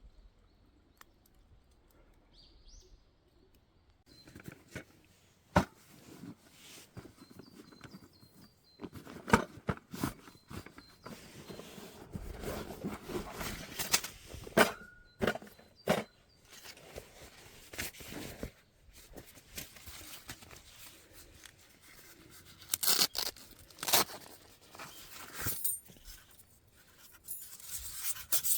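Quiet at first, then from about four seconds in, irregular handling noises: rustling and crunching broken by many sharp clicks and knocks.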